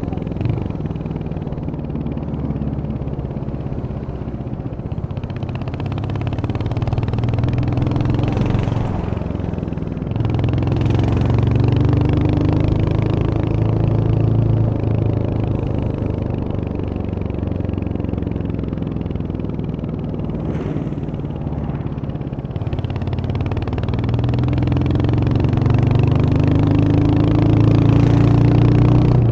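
Royal Enfield Hunter 350's 349 cc single-cylinder engine running under way, its note rising as the bike speeds up and falling as it eases off, several times over, with a few brief clicks.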